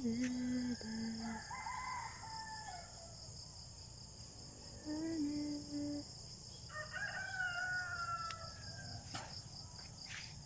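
A rooster crowing, most clearly about seven seconds in, over a steady high insect buzz. A person hums a few low notes at the start and again about five seconds in.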